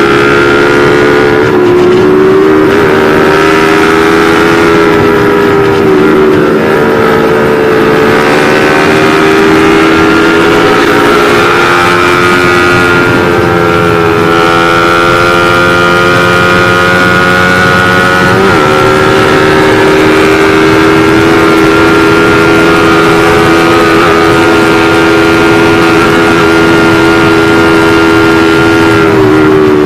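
A motorcycle engine running at steady high revs while riding, heard from the bike itself. Its pitch holds nearly constant, with a few brief dips.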